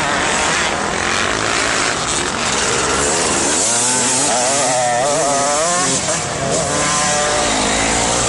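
Motocross bike engines running hard, their pitch rising and falling repeatedly as the throttle is opened and closed.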